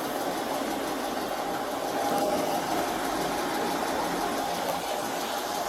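Steady mechanical hum of an idling vehicle engine, unchanging throughout.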